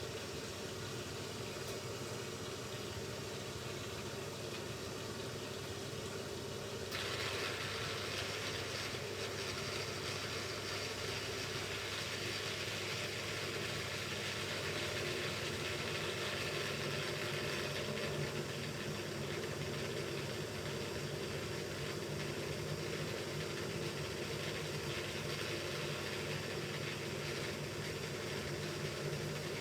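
Hoover Ecologic Computer Washer 1300 washing machine running through its rinse/spin programme: a steady motor hum with several held tones. About seven seconds in, a louder hiss comes in suddenly and the machine stays louder after that.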